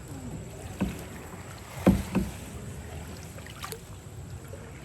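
Paddling a small boat: paddle strokes in the water with several knocks, the loudest about two seconds in.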